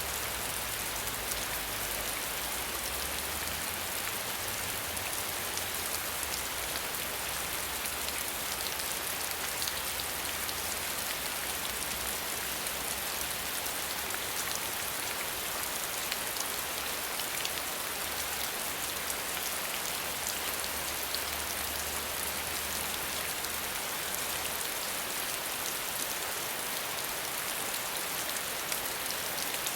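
Steady rain without thunder: an even hiss of falling rain with a dense patter of individual drops.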